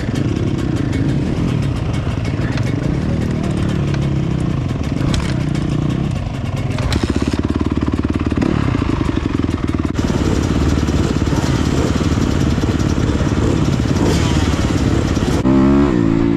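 Dirt bike engine running, its revs rising and falling, then picking up into a louder, fast, even firing about seven seconds in as the bike is ridden.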